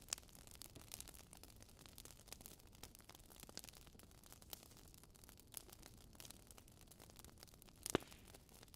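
Wood fire crackling in a fireplace: a steady scatter of small pops and snaps over a soft hiss, with one louder pop near the end.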